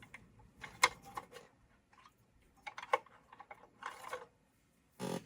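Scattered light clicks and short rustles of hands working at a sewing machine and handling the hoodie's fabric, with a brief louder rustle near the end.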